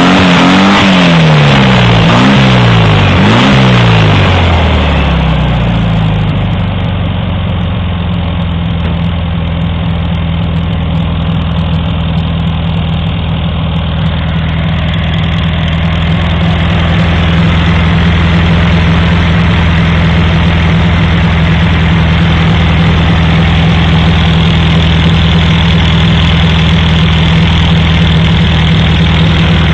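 A 1973 VW Beetle's 1600cc dual-port air-cooled flat-four, on EMPI dual 34 EPC carburettors and an EMPI exhaust, is blipped up and down a few times in the first few seconds. It then settles to a steady idle.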